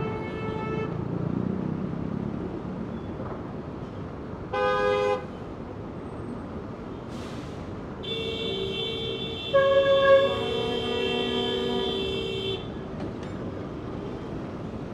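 Steady traffic on a busy street, with vehicle horns honking: a short toot about five seconds in, then several horns sounding together for about four seconds, loudest near the middle of that stretch.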